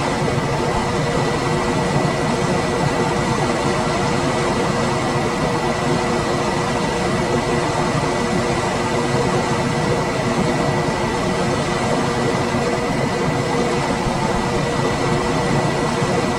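Room air conditioner running steadily: a constant rush of fan and air noise with a faint high whine and a low hum held throughout.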